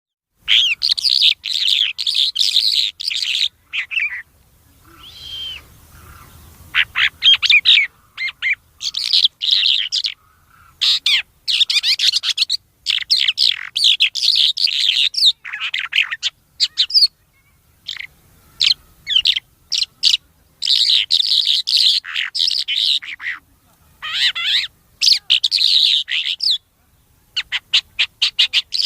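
A songbird known locally as thor ghoora singing loudly: rapid, chattering high phrases of one to three seconds each, repeated with short pauses between them.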